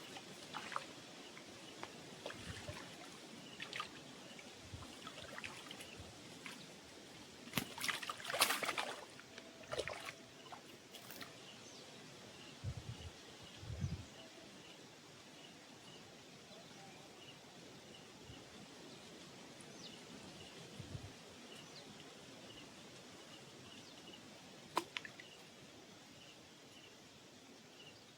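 Quiet waterside ambience with scattered small splashes and handling knocks, a cluster of them about eight to ten seconds in, and a faint, evenly repeated chirping.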